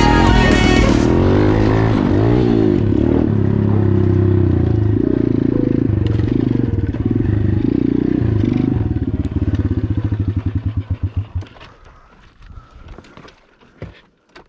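125cc pit bike's single-cylinder four-stroke engine running hard on a top-speed run, its pitch rising and falling as it goes through the gears, then holding steady. About nine seconds in it slows to a low putter, and it cuts off near eleven and a half seconds, leaving faint clicks.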